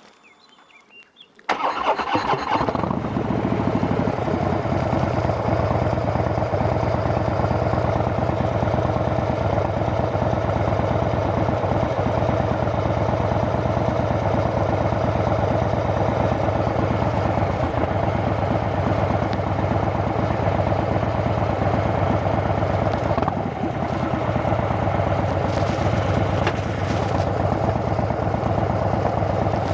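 Harley-Davidson Dyna Fat Bob's V-twin engine, breathing through Vance & Hines Shortshots pipes with quiet baffles, starting about a second and a half in and then idling steadily.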